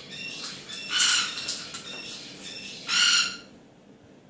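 Caique parrot squawking: two loud harsh screeches, about a second in and again near three seconds, with softer short chirps between them.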